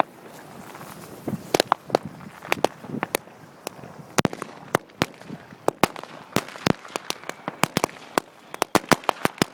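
Firecrackers going off, a string of sharp, irregular bangs that come faster from about four seconds in.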